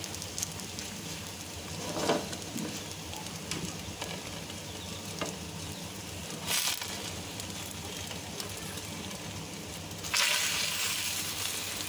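Egg-in-bread toast frying in ghee in a nonstick pan, a steady light sizzle. A brief spatula scrape about six and a half seconds in, then about ten seconds in the sizzle turns louder as a slice of bread is flipped onto the hot pan.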